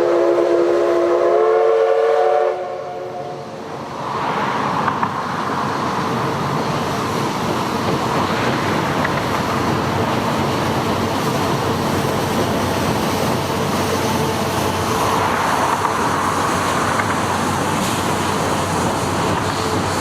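C11 steam locomotive whistle blowing for about two and a half seconds, several tones sounding together, then the train running past with a steady rolling noise from about four seconds in.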